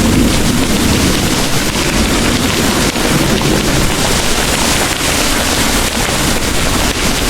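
Heavy rain pouring steadily, a dense even hiss, with the low rumble of distant thunder dying away in the first second or so.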